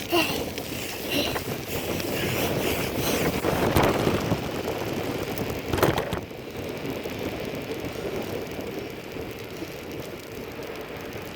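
Wind buffeting the microphone over the rolling noise of a bicycle on the move, with two sharp knocks midway, after which the noise settles lower.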